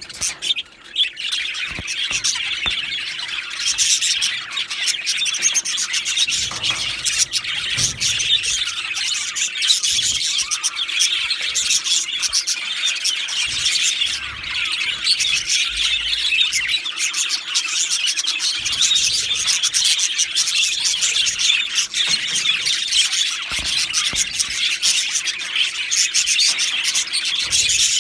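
Male budgerigars chirping and chattering without pause, a dense stream of quick high squeaky notes.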